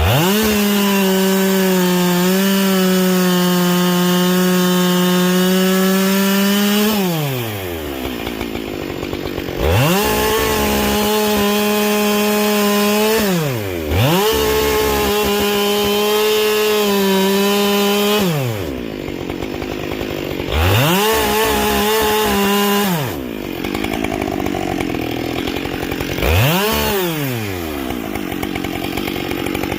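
Husqvarna 572 XP two-stroke chainsaw with a carbide-tipped chain, revved to full throttle for cuts in wood and dropping back to idle between them. There are four runs of a few seconds each, then a short rev near the end.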